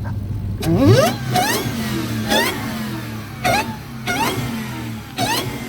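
A high-performance car engine revved hard from idle, then blipped in about five quick throttle stabs, each one a short rising whine, at roughly one a second: the car "talking".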